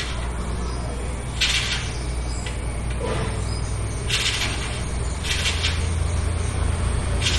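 Jerusalem cricket making defensive rasping hisses, short bursts about every second and a half, a warning to scare off the person close to it. Under them runs a steady low rumble.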